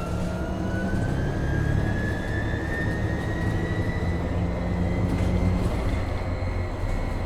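Inside a MAN Lion's City NL253 Hybrid city bus pulling away: the electric drive's whine rises steadily in pitch and levels off about five seconds in, over the low rumble of the bus.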